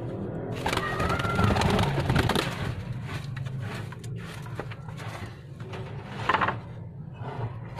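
Pigeons cooing, with a single meow-like call about a second in.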